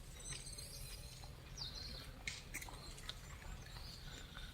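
Outdoor ambience: a steady low rumble of background noise, with a few short, high chirps and scattered faint clicks.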